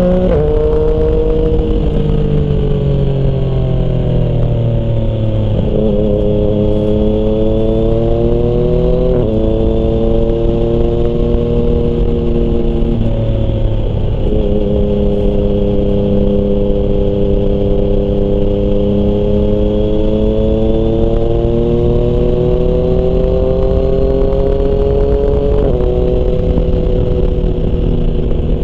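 Yamaha MT-09's inline three-cylinder engine through a Termignoni exhaust while riding. The engine note slowly rises and falls with the throttle, with sudden steps in pitch at gear changes a few times.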